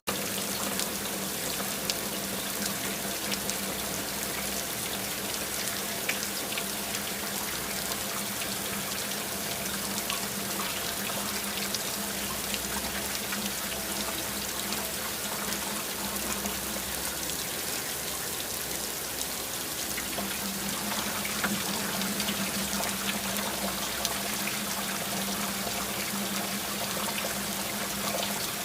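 Steady rain falling, with many small drop hits and a continuous run of pouring, trickling water. A low steady hum sits underneath, fading out for several seconds midway and coming back about two thirds of the way through.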